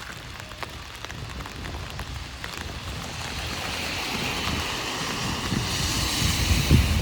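Heavy rain pattering on an umbrella, with scattered individual drop taps. From about halfway a hiss swells steadily, loudest near the end with a low rumble underneath, like tyres on a wet road as a vehicle approaches.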